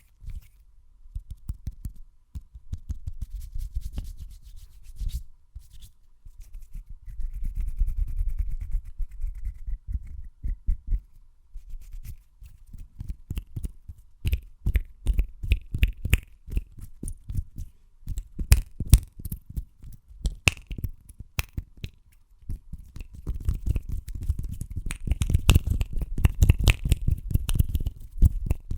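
Hands rubbing, tapping and clicking quickly right against the microphone, making a dense run of short clicks over a low rumble, with some louder sharp clicks in the middle.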